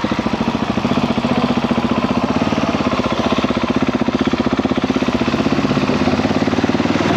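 KTM 690 SMC R's single-cylinder engine running steadily at low revs, its firing pulses distinct and even.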